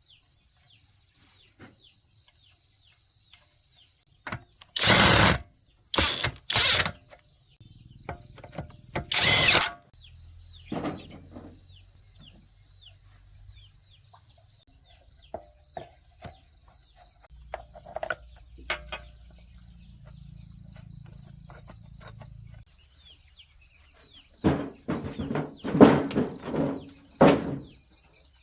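Steady high-pitched drone of insects, with several short, loud bursts of noise from the work: three in the first ten seconds and a cluster of four or five near the end.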